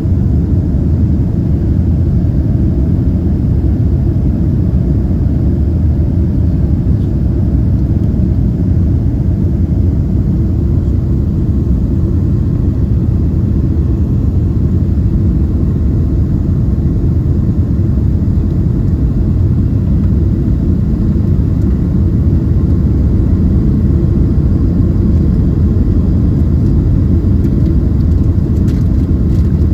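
Steady low rumble of engine and airflow noise inside the cabin of a Boeing 767-300ER airliner.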